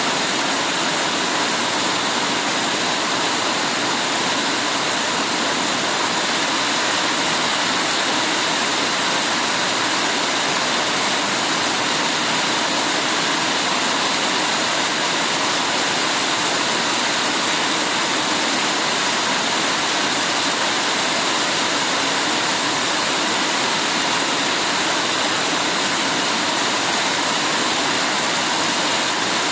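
Heavy rain falling: a steady, even hiss of rainfall that does not change.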